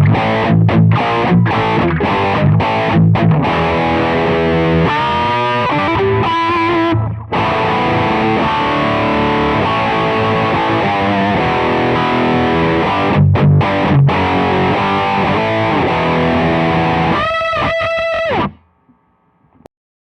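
Heavily distorted electric guitar played through the Donner MultiPad-100 multi-effects processor's distortion setting. The playing goes from choppy palm-muted chugs to ringing chords, with a quickly repeated high note near the end before it stops short.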